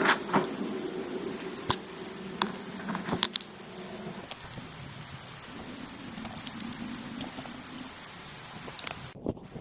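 Steady rain falling, with separate heavy drops tapping sharply on a surface, most strongly in the first few seconds.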